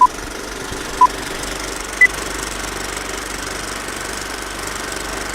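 Countdown-style beeps about a second apart, the first ones at one pitch and the last one higher, over a steady mechanical clatter like an old film projector running.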